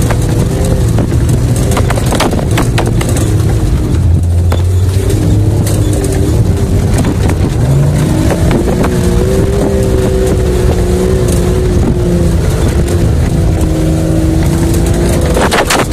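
Off-road 4x4's engine pulling along a rough forest track, its revs rising and falling as it works over the ruts, with occasional knocks and rattles.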